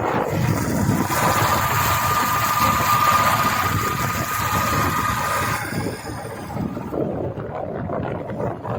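Motorcycle engine running under way, with a rush of noise from the ride and a thin steady whine; the rush drops away about six seconds in, leaving a quieter low rumble.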